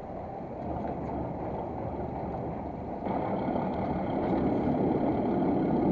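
Fishing boat's engine running, with water rushing against the hull. It gets louder about three seconds in as the boat speeds up after the lines are reeled in.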